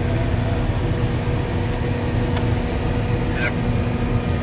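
Volvo L70H wheel loader's diesel engine and snow blower running steadily, heard from inside the cabin as a low rumble with a steady hum. A single short click about halfway through.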